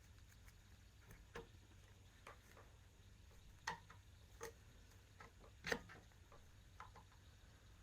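Faint, irregular clicks and taps of tools and metal parts being handled during hand assembly work, the two loudest about a third and three quarters of the way through, over a low steady hum.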